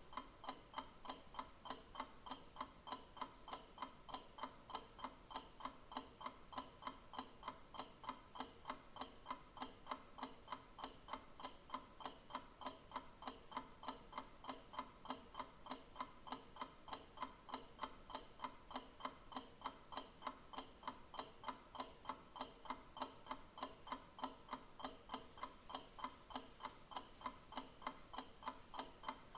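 Clock ticking at an even, fast pace, several sharp ticks a second, without a break.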